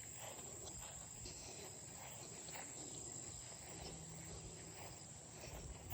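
Insects, crickets by their sound, keep up a steady, high-pitched trill, with faint scattered rustles and steps on the trail.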